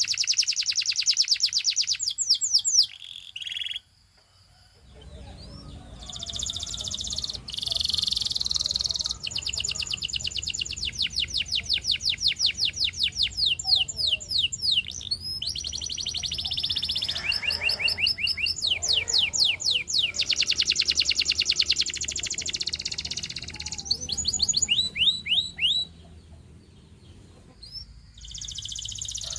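Canary singing in long, rapid trills of quickly repeated sweeping notes, several rolls one after another, with two short pauses, one a few seconds in and one near the end.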